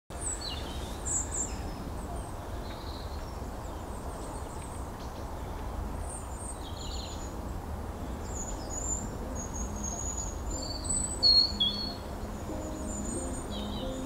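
Small birds chirping and calling in short, high notes over a steady low rumble, with one louder call about eleven seconds in. Music fades in near the end.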